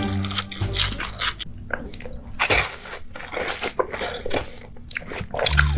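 Close-miked chewing and biting of a sauce-drenched corn dog: wet mouth sounds with many short, irregular clicks.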